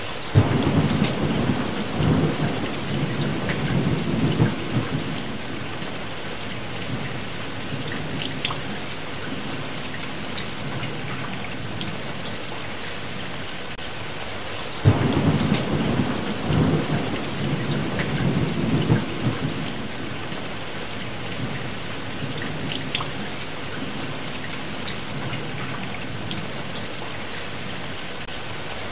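Steady heavy rain with two long rolls of thunder, one starting at the very beginning and one about halfway through.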